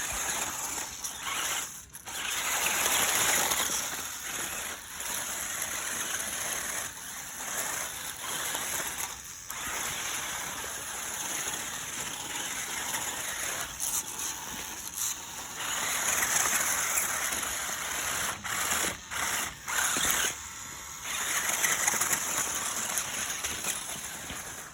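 Small electric motor and geartrain of an RC rock crawler running with a high whine and rattle, cutting out briefly several times as the throttle is let off.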